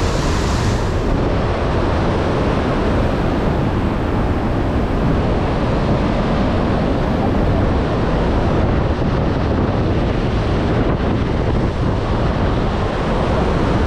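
Iguazu Falls pouring into the Devil's Throat gorge: a loud, steady roar of falling water with a deep rumble. The highest hiss eases a little about a second in.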